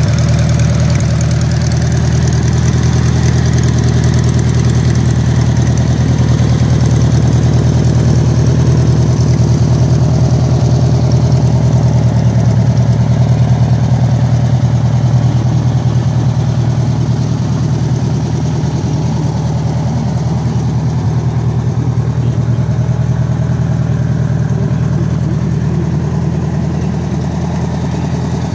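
1971 VW Super Beetle engine idling steadily.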